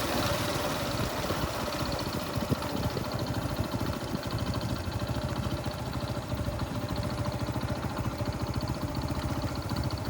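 A small engine running steadily, its low rumble pulsing rapidly and evenly.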